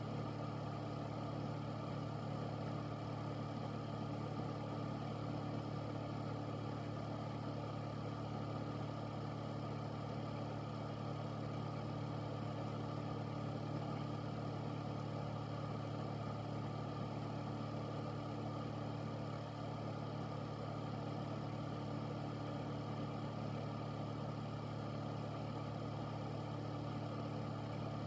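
Air filter's fan running steadily: a constant motor hum with a few fixed low tones over an even rush of air.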